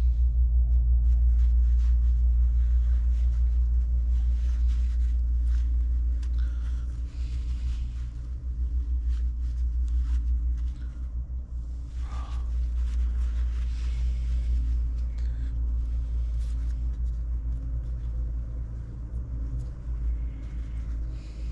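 A machine running steadily with a low hum, with light clicks and taps over it.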